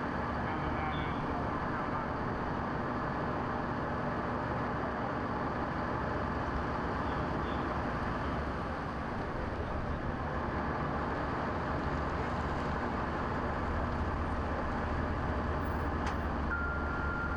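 Steady rumble of vehicle engines and street traffic, with a brief thin high tone near the end.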